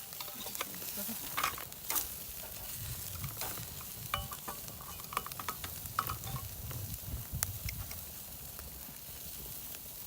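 Meat sizzling on a charcoal grill, a steady hiss with scattered sharp clicks and clinks of utensils.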